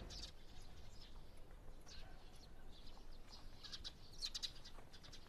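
Faint birds chirping over quiet outdoor ambience, with a quick run of high chirps about four seconds in.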